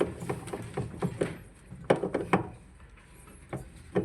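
A run of light clicks and knocks, thickest in the first two and a half seconds, then a quieter stretch and one more knock near the end: hand tools and metal parts handled while working on a top-load washing machine's transmission and clutch from below.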